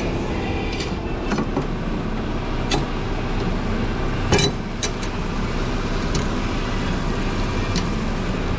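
2006 Infiniti M35's 3.5-litre V6 idling steadily in a workshop, with about half a dozen sharp clicks and knocks over it, the loudest about four and a half seconds in.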